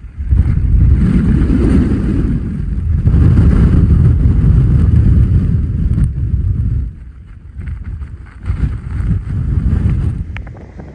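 Strong wind gusts buffeting a car driving through a whiteout blizzard: a loud, low rushing rumble that swells and eases, falls off about seven seconds in, then gusts again.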